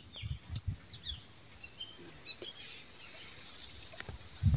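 Quiet outdoor ambience: a few short, high bird chirps over a steady high hiss, with scattered low thumps.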